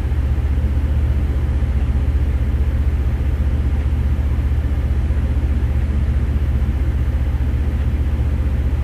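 An engine running steadily: a low, even drone with a fast regular pulse.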